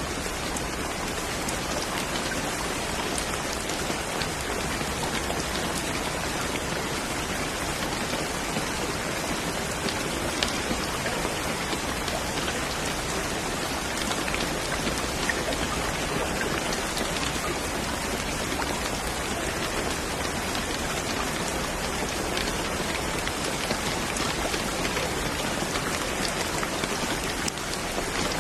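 Steady rain falling: an even hiss with scattered faint ticks of single drops.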